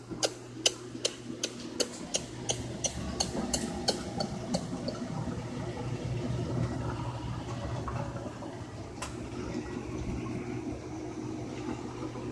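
Whirlpool washing machine: a run of sharp clicks, about three a second, for the first four or five seconds, then a steady rush of water with a low hum as it runs.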